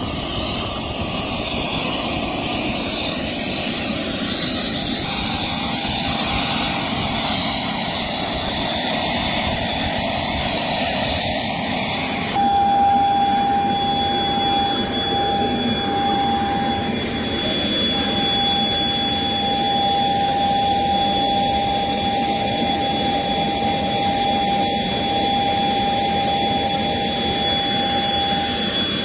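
Private jet's turbine engines running, a steady loud rush with a high, even whine. About twelve seconds in the sound changes abruptly and the whine becomes stronger.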